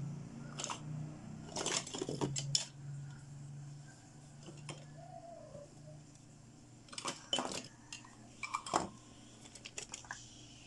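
Small hard plastic toy doctor-kit pieces clicking and clattering as they are handled and set down, in two bursts of clicks, one near the start and another in the second half.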